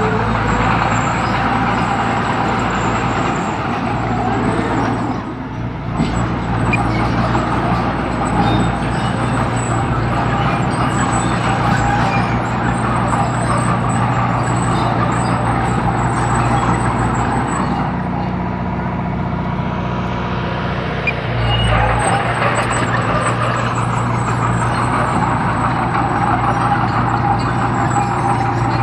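Heavy diesel construction machine engine running steadily, its note dipping briefly about five seconds in and shifting again a little past twenty seconds.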